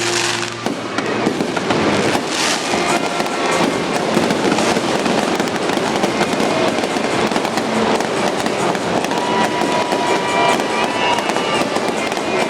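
Aerial fireworks crackling and popping densely and without a break, with a louder bang about two seconds in. The show's music cuts out about half a second in.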